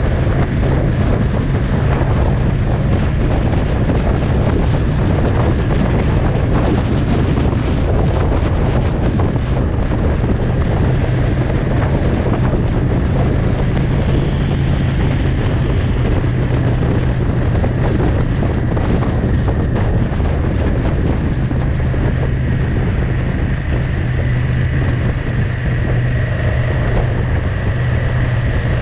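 Motorcycle riding at a steady road speed, its engine giving a constant low drone under heavy wind rush and buffeting on the microphone.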